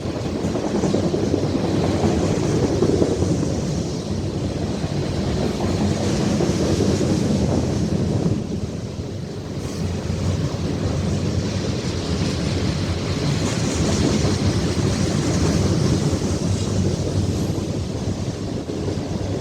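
Freight train rolling past, its cars making a steady rumble on the rails.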